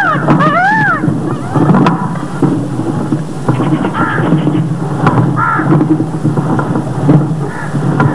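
A bird calling a few times in quick rising-and-falling notes during the first second, with a few fainter calls later, over a steady low background noise.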